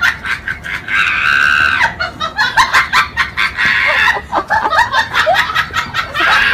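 A person laughing hard, with high-pitched shrieks and rapid, repeated bursts of laughter.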